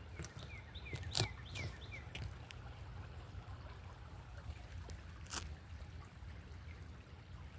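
Quiet outdoor ambience: a bird gives a quick series of about five short, downward-sliding chirps in the first couple of seconds, over a faint low rumble, with a few sharp crackles like steps in dry leaves, one more about five seconds in.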